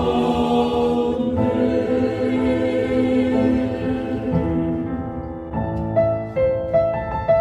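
A small mixed vocal ensemble sings a Korean ballad in close harmony with piano. For the first few seconds they hold a long sustained chord, which then thins and fades. From about five and a half seconds in, separate piano notes take over.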